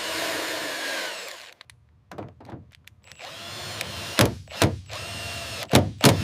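Power drill running in two bursts while drilling bolt holes in a panel, with sharp knocks between and after the runs, the loudest near the end.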